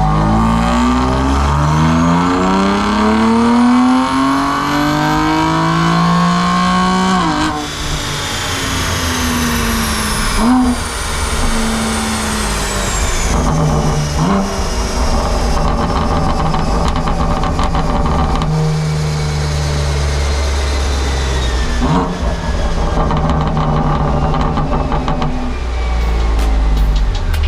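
BMW M2 Competition's twin-turbo S55 straight-six, breathing through equal-length downpipes and a resonated midpipe, pulling at full throttle on a chassis dyno: revs rise steadily for about seven seconds, then it lifts off. It then runs on, blipped a few times, while a faint high whine falls slowly.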